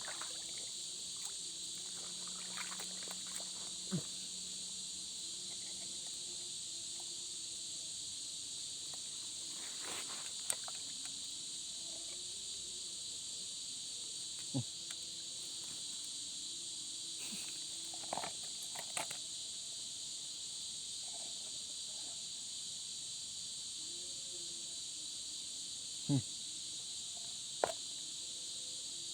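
Steady chorus of night insects such as crickets, a constant high-pitched trilling, broken by a few scattered short clicks and knocks.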